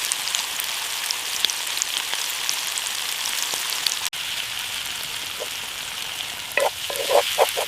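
Ground beef and onions frying in a hot pan: a steady sizzle with small pops and crackles. Near the end, a few short squeaks cut through it.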